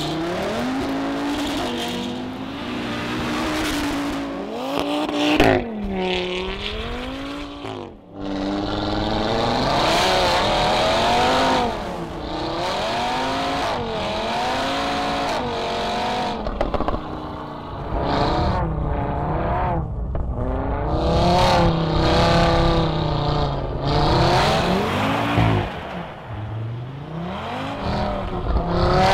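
A car engine revving hard and easing off again and again as the car is drifted sideways on snow-covered ice, its pitch swinging up and down every second or two.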